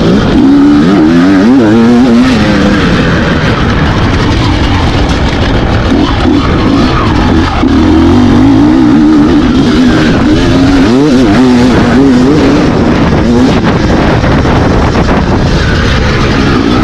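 Enduro dirt bike engine revving hard, its pitch climbing and dropping again and again as the throttle is worked.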